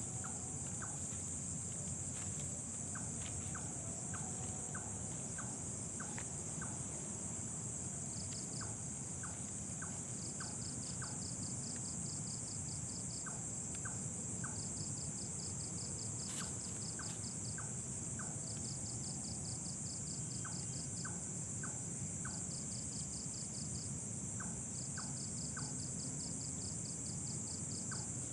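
Night insect chorus: a steady high-pitched shrill of crickets, with another insect's rapid pulsing trill coming in repeated bursts every few seconds. Faint ticks about twice a second come through over a low rumble.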